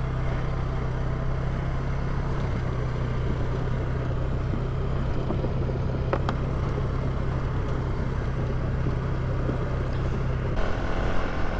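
Polaris ATV engine running at a steady pitch while it creeps over a rutted dirt trail, with a rattling haze of tyre and chassis noise. There is a single tick about six seconds in, and the engine note changes about ten and a half seconds in.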